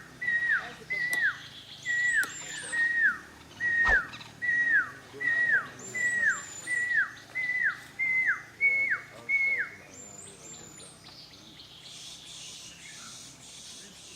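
A bird repeats a loud whistled note about a dozen times, roughly one and a half a second; each note is held, then slides sharply down. The series stops about ten seconds in, and faint higher chirps from another bird sound above it.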